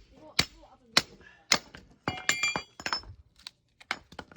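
Oak firewood being handled: a run of sharp wooden knocks, roughly two a second, with a brief ringing clink about two seconds in.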